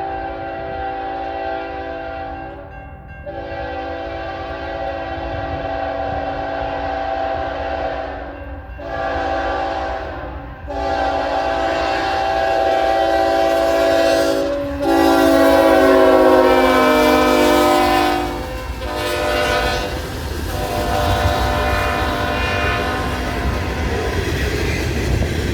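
A freight train led by a pair of GE ES44AC locomotives sounds its air horn for a grade crossing in a series of mostly long blasts. The horn's pitch slides down in the middle as the locomotives pass. The rumble of the train rolling at speed builds underneath near the end.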